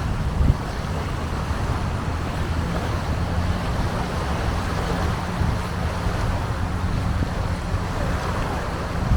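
Longtail boat engine running at a steady speed, with wind buffeting the microphone briefly near the start.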